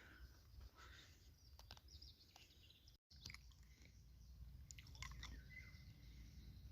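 Near silence: faint outdoor ambience with a few soft clicks and a couple of faint bird chirps. The sound drops out completely for a moment about three seconds in.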